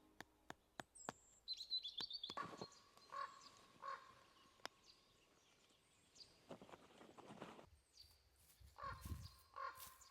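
Faint forest ambience with birds calling: a brief high chirping trill early on, and two runs of three evenly spaced calls. A few sharp clicks come in the first second.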